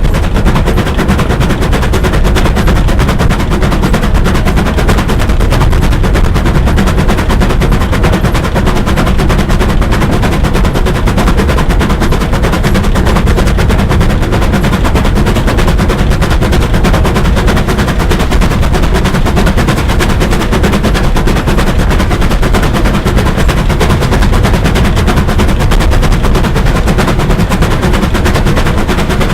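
Steam-hauled train on the move: a loud, steady, rapid clatter over a heavy rumble that keeps up without a break.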